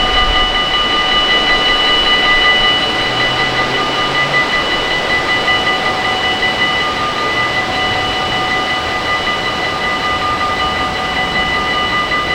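Train running past, with a steady high-pitched whine of several tones over a rushing noise.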